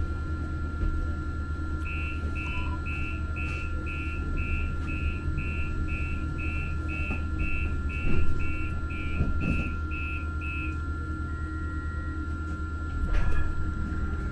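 Muni Metro light-rail train running, a steady low rumble with a steady electric whine, while a high electronic beep repeats about twice a second for around nine seconds. Two louder clunks come about eight and thirteen seconds in.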